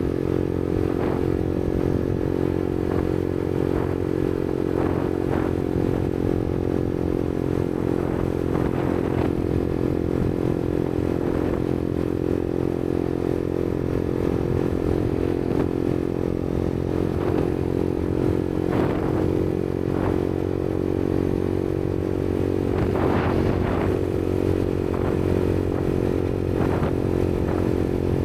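Yamaha MT-125's single-cylinder 125cc engine through an aftermarket Black Widow exhaust, running at a steady engine speed while the motorcycle cruises. There are a few brief knocks or rattles along the way.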